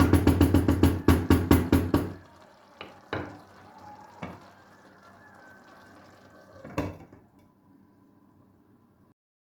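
A rapid run of loud knocks for about two seconds, followed by a few single knocks and clicks spaced out over the next several seconds; the sound cuts off shortly before the end.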